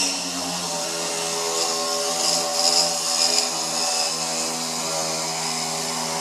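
A power tool running steadily with a hum and a high hiss; the hiss swells briefly about two to three and a half seconds in.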